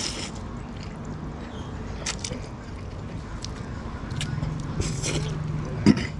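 Close mouth sounds of someone chewing a mouthful of noodles with raw banana blossom, with short crisp crunches every second or so. There is one sharp, loud knock near the end.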